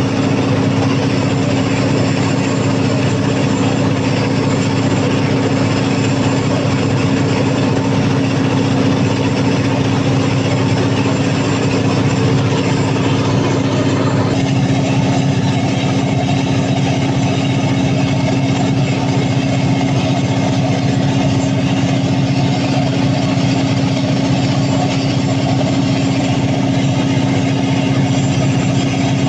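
Freshly overhauled Cummins KTA50 V16 diesel engine of a 750 kW generator set running steadily under load during a load test. Its tone shifts slightly about halfway through.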